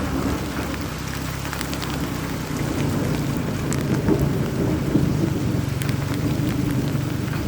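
Steady roar of falling water, heaviest in the low end, with a few faint ticks over it.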